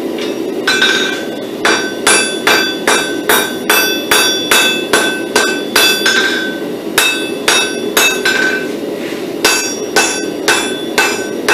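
Hammer blows ringing on an anvil as a pattern-welded steel billet is forged, about two to three strikes a second in three runs with short pauses. A steady low rush runs underneath.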